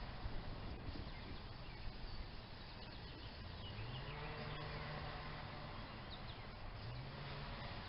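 Outdoor ambience with a low buzzing hum that comes and goes, rising and falling in pitch like an insect flying past the microphone, and a few faint bird chirps.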